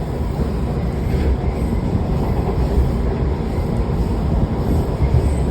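Washington Metro train running along its tracks, a steady low rumble.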